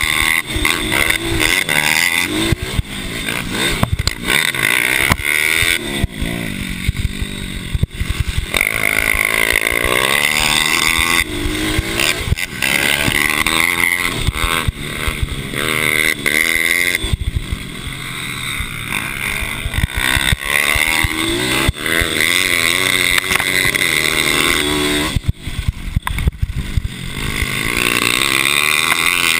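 Several mini bike engines racing, revving up and falling back again and again as the bikes accelerate and brake, their pitches overlapping.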